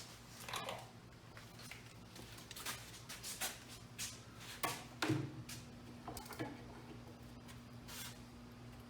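Irregular light clicks and taps of hand work with a screwdriver on a screw, the sharpest about five seconds in, over a steady low hum.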